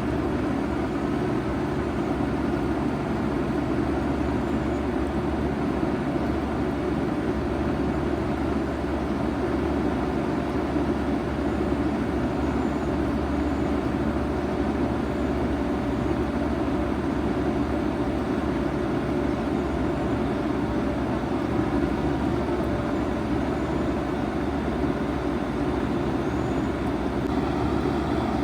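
2007 Bard 5-ton wall-hung heat pump running steadily in heat mode: a constant mechanical hum under an even rush of air.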